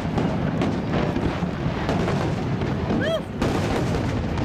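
Fireworks display in a dense barrage, bangs and crackles following one another with almost no gap. A short whistle rises and falls about three seconds in.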